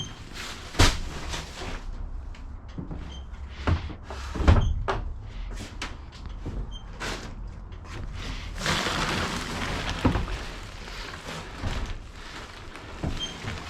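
Scattered knocks and thumps with rustling as soft bags and gear are shoved into place around a motorcycle in a truck's cargo box. The loudest knock is about four and a half seconds in, with a stretch of rustling a few seconds later.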